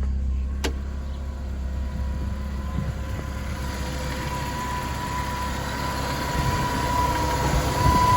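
BMW E36 engine idling steadily with a thin steady whine that grows louder toward the end, then cuts off suddenly.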